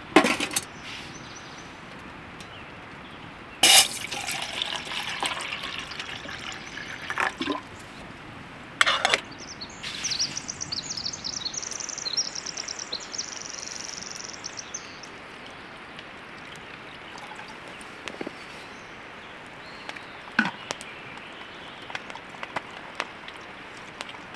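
Water being poured and trickling, as when making a cup of tea, among several sharp knocks and clatters of handled camp gear.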